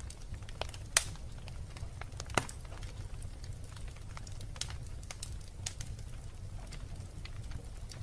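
Wood fire crackling in a fireplace: scattered small pops and ticks, with two louder snaps about a second in and near two and a half seconds, over a low steady rumble.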